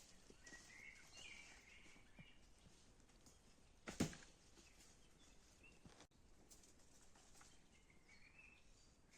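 Faint bird calls: short chirps near the start and again near the end. One sharp knock about four seconds in.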